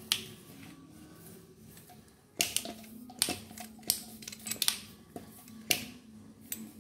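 Sharp clicks and knocks of hand tools and metal and plastic parts being handled while a rotary hammer drill is taken apart, about six strokes spaced irregularly, most of them in the second half.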